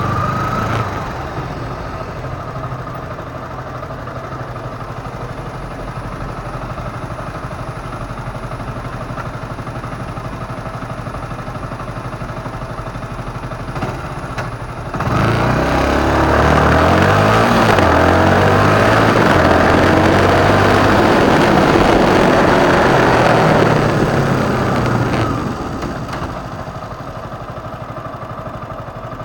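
Motorcycle engine ticking over steadily, then about halfway through it revs up and pulls away, its pitch climbing in steps through the gears, much louder for several seconds. Near the end it eases back to a lower, steady running.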